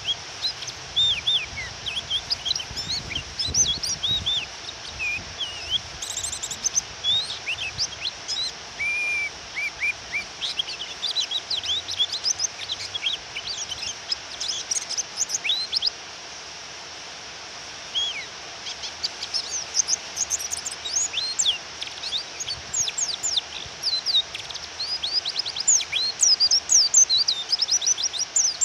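Female white-eye (pleci) calling in quick, high chirping twitters, with a pause of about two seconds partway through and busier calling near the end. Under it runs a steady hiss of rain.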